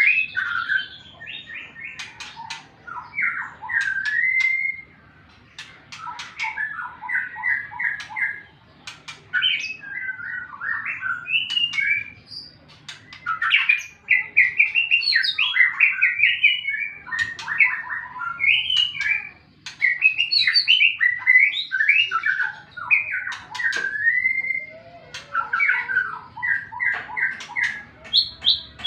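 White-rumped shama (murai batu) singing a long, varied song of rapid repeated notes and sliding phrases with sharp clicks among them, in the challenging song of a bird fresh out of its moult and looking for a rival.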